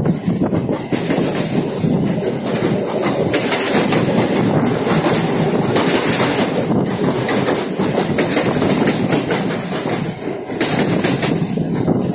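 Running noise of an electric suburban train heard from aboard while it moves: a steady rumble of steel wheels on the rails, dotted with clicks and clacks as the wheels pass over rail joints.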